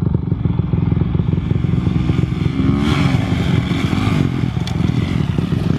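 Motocross dirt bike engines running hard, loud and continuous, with a change in revs about three seconds in.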